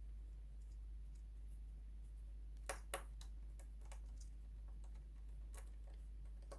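Scattered light clicks and taps of a small hex screwdriver and screws on a sewing machine's housing while it is being taken apart: two sharp clicks close together about two and a half seconds in and another near the end, over a steady low hum.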